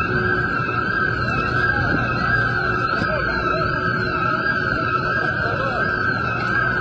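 A siren wailing, its pitch swinging up and down about every two-thirds of a second over a steady high tone, with a dense rushing noise of sandstorm wind underneath.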